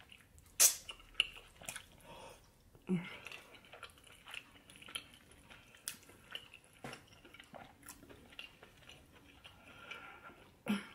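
Close-miked chewing and lip smacking of oxtail stew, with sharp wet mouth clicks scattered irregularly throughout; the loudest comes about a second in.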